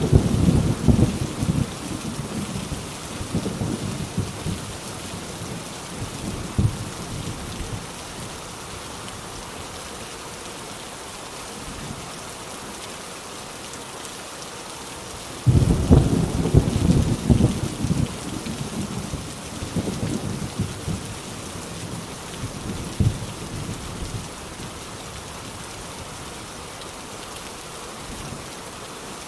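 Heavy rain drumming steadily on an old tin roof, with thunder. A rumble fades out over the first several seconds, then a sudden loud thunderclap about halfway through rolls on for several seconds.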